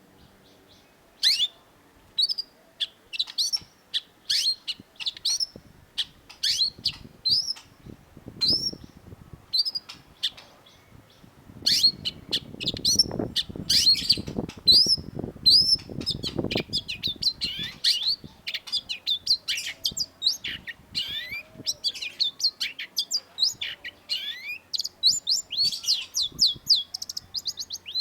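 Long-tailed shrike singing a string of short, sharp, high notes, spaced about one a second at first and becoming a fast, dense run from about halfway. A low rustling noise sits under the song for a few seconds in the middle.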